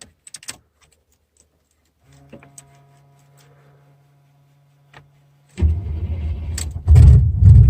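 Keys jangle in the ignition, then a steady low hum sounds for about three seconds. The 1991 GMC K1500's V8 then cranks briefly and catches on the first try, a cold start on fresh spark plugs. It comes up loud into a fast cold idle.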